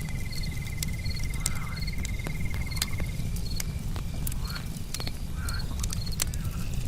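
Campfire crackling with frequent sharp pops over a steady low rumble of the flames. Crickets chirp in short high bursts, and an insect holds a fast, even trill for the first three seconds. A few short frog calls come through.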